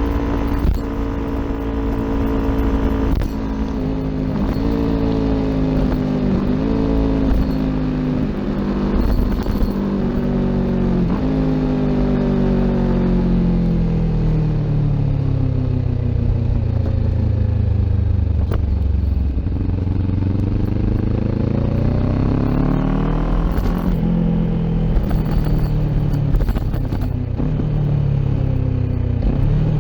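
Kawasaki Ninja 400's parallel-twin engine running through an Akrapovic exhaust while riding. The engine note falls for roughly the first half, with a few short breaks as gears change, then rises again as the bike accelerates about two-thirds of the way in.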